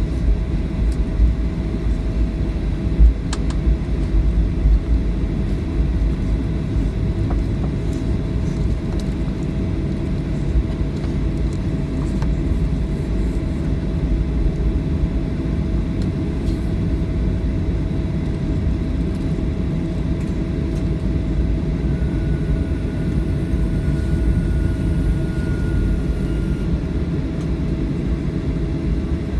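Steady low rumble of cabin noise inside a Boeing 737-800 on the ground after landing, with engine hum, wheel rumble and a faint steady tone above it.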